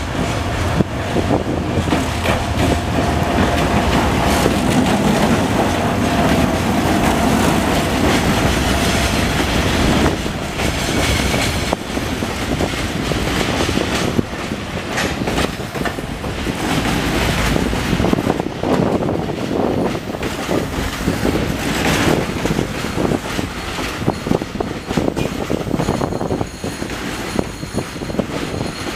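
D19E diesel-electric locomotive and its train of cars passing, with a steady rumble of running gear and wheels clattering over rail joints and pointwork. A steady high tone sounds over it for about the first nine seconds.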